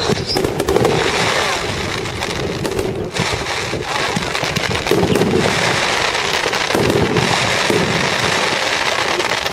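Fireworks display: a dense, unbroken crackle of many small pops and bangs, with crowd voices underneath.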